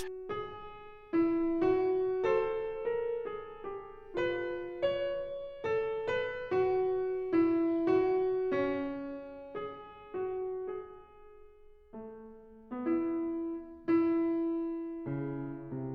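Soft solo piano music: a slow melody of single notes, each struck and left to ring and fade, with lower bass notes joining near the end.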